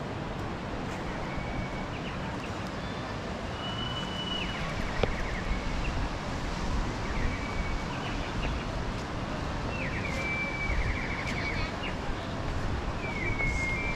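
Bird calls: short whistled notes, each running into a quick trill, repeating every few seconds over a steady outdoor rush of wind and surf. A single sharp click about five seconds in.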